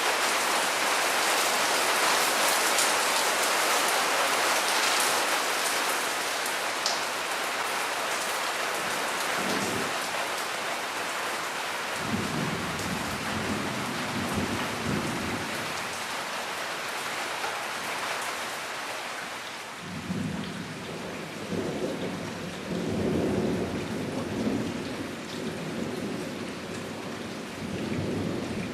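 Heavy rain pouring steadily in a thunderstorm. Low rolling thunder rumbles in about ten seconds in, then again for long stretches through the second half. The rain is heaviest at first and eases slightly later on.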